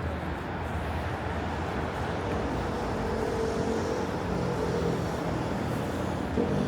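Street traffic on a city boulevard: a steady wash of car engines and road noise, with an engine hum that comes up about three seconds in and again near the end.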